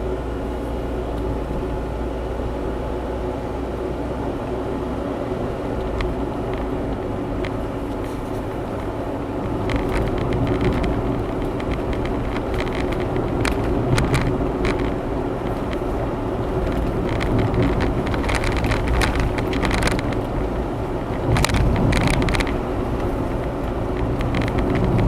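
Honda Zest kei car driving, heard inside the cabin: a steady hum of engine and road noise that grows somewhat louder after about ten seconds. Scattered short clicks and rattles come in from about ten seconds in.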